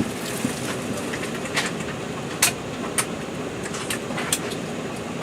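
Steady cabin hum of an Embraer 195-E2 airliner's ventilation, with scattered sharp clicks and knocks from inside the cabin.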